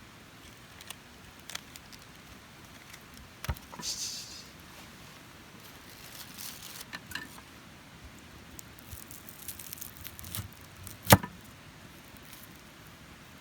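Handling noises at close range: scattered light clicks, clinks and rustles, with one sharp knock about eleven seconds in.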